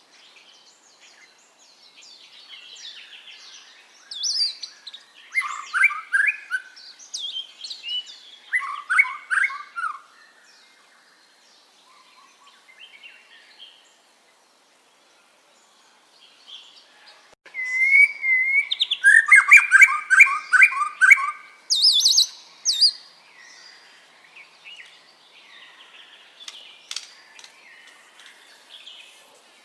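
White-rumped shama singing varied phrases in two loud bouts with a quiet gap of a few seconds between them; the second bout includes a fast repeated trill.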